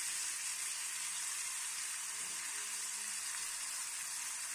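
Freshly added ginger-garlic paste sizzling in hot oil in a steel kadhai, with curry leaves and mustard and cumin seeds. A steady frying hiss.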